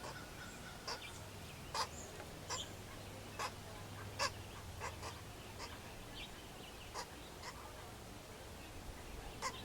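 A bird calling with short, sharp calls, unevenly spaced about once or twice a second, with the loudest two or so seconds in and again about four seconds in.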